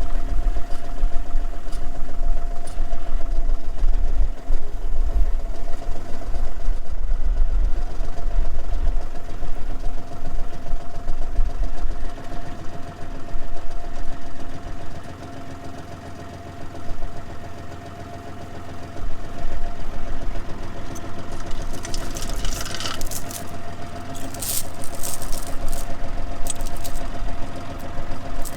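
John Deere 5210 tractor's diesel engine running at a steady speed. Wind buffets the microphone for the first half. Several sharp clicks or rattles come near the end.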